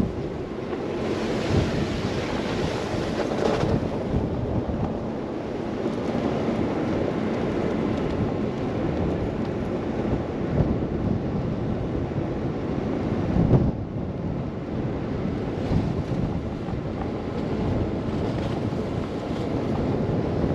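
Blizzard wind rushing and buffeting the microphone, a steady noise that swells into a stronger gust in the first few seconds and drops briefly about two-thirds of the way through.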